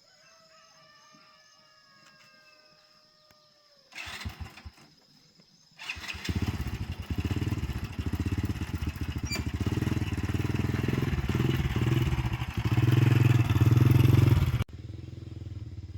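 Small petrol engine being test-started: a brief cranking attempt about four seconds in, then it catches about two seconds later and runs with a rapid rhythmic pulse, revving harder near the end before dropping abruptly to a lower running sound.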